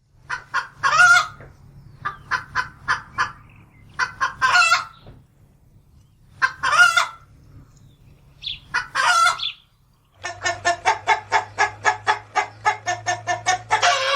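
Hen cackling: runs of short clucks that each end in a long, loud squawk, about five times over, then after a short break a quicker run of about five clucks a second ending in another long squawk.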